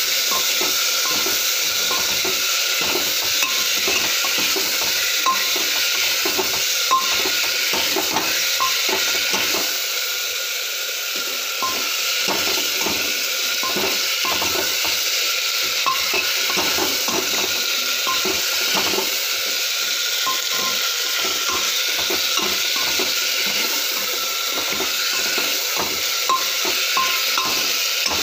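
Potatoes, capsicum and tomato sizzling in a pan while a spatula stirs them, with frequent light clicks and scrapes of the spatula against the pan over a steady sizzle.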